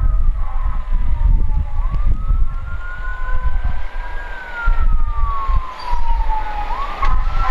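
Fire truck siren wailing: a slow rise, a long fall, then another rise near the end, with a second siren tone sliding slowly down beneath it, over a heavy low rumble.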